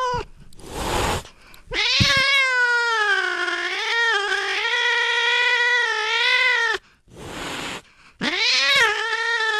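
Domestic cat yowling: a meow ends at the start, then a long drawn-out yowl wavering in pitch for about five seconds, and another begins near the end, with short breathy noise between the calls.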